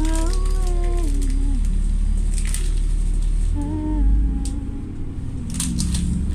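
A person's wordless voice, humming or moaning with a sliding, falling pitch, twice, over a steady low rumble.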